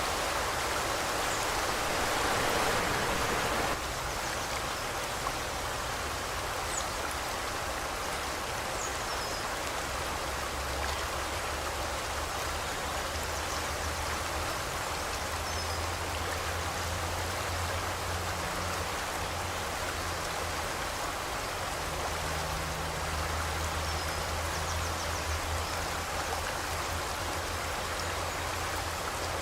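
River water rushing and flowing steadily over rocks, easing slightly about four seconds in, with a few faint bird chirps above it. A low steady hum joins underneath from about ten seconds in.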